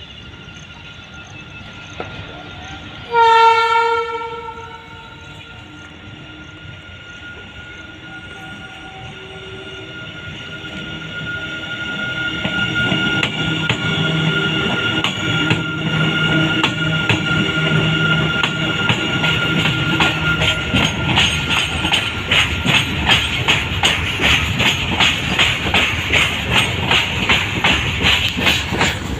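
WAG12 electric freight locomotive sounding one short horn blast about three seconds in. Its goods train then approaches with a rumble that grows louder, and the wagons pass with their wheels clacking rhythmically over the rail joints.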